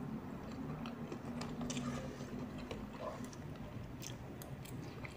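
Person chewing a mouthful of mie ayam chicken noodles, with faint wet mouth clicks scattered through, over a low steady hum.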